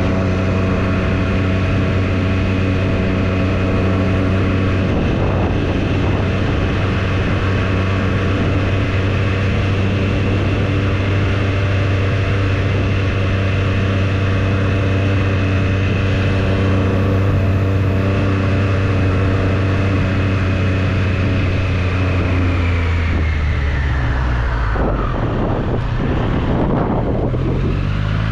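Triumph Street Triple's inline three-cylinder engine running steadily at cruising speed under wind rush. Near the end the engine note drops as the bike slows, then starts climbing again as it accelerates.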